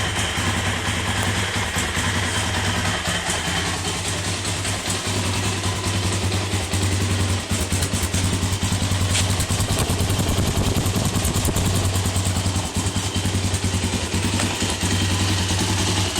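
Arctic Cat DVX 400 ATV's single-cylinder four-stroke engine running at a steady idle, a little louder from about seven seconds in.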